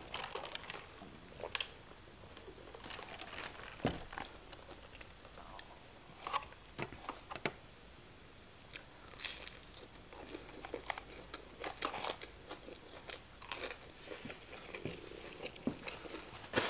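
A person biting and chewing crisp fast food close to the microphone: scattered short crunches and wet chewing sounds.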